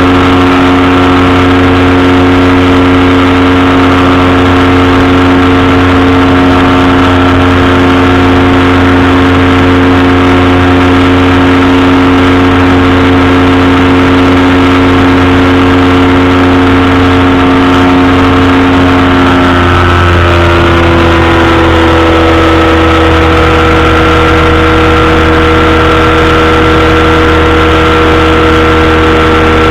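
Powered parachute's engine and propeller running steadily in flight, loud and close. About two-thirds of the way through, the engine note shifts to a different pitch as the throttle changes, then holds steady again.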